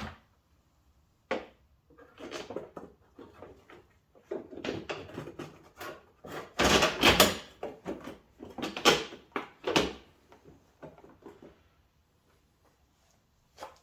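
Plastic fender flare being handled and fitted back onto a Jeep Cherokee XJ: a series of irregular knocks, clatters and scrapes, loudest about seven seconds in.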